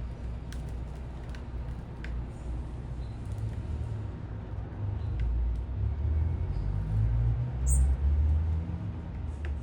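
City ambience: a steady low rumble of distant traffic that swells in the middle. Over it come a few faint high clicks and one short, high bird chirp about three-quarters of the way through.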